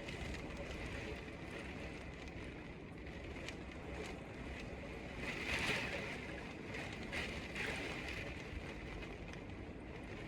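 Typhoon wind and rain: a steady rushing noise that swells in a stronger gust a little past halfway, with scattered small ticks.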